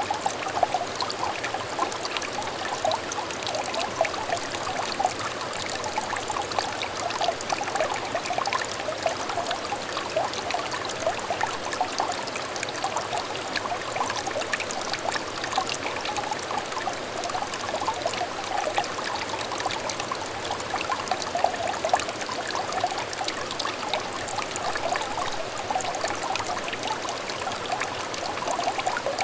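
A small stream trickling and babbling steadily over stones, with constant close-up burbling and small splashes of running water.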